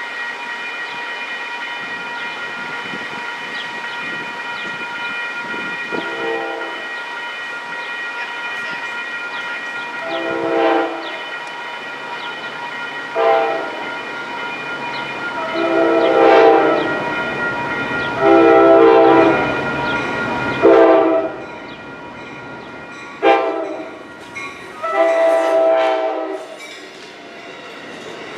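An approaching train's air horn sounding a series of long and short blasts, about eight in all, over steady high tones that stop about three-quarters of the way through.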